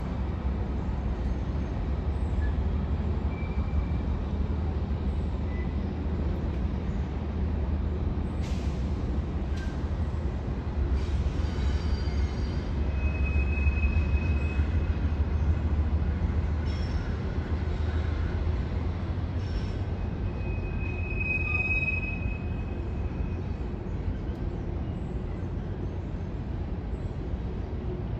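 Train rolling past with a steady low rumble of wheels on rail, a few clanks, and two brief high-pitched wheel squeals partway through.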